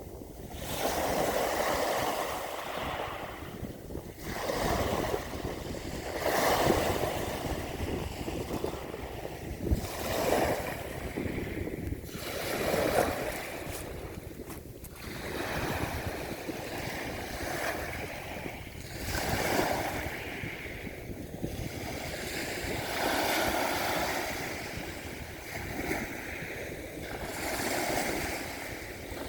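Ocean surf, waves breaking and washing in, swelling and fading every few seconds, with wind rumbling on the microphone.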